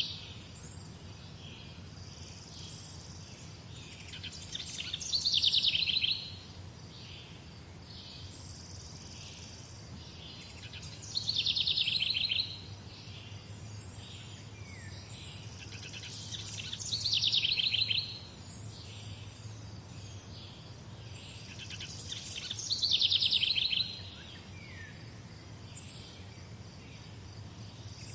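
A songbird repeating the same short song phrase about every six seconds, each phrase a second or two long, growing louder and then breaking off, with fainter chirps in between. A steady low hum runs underneath.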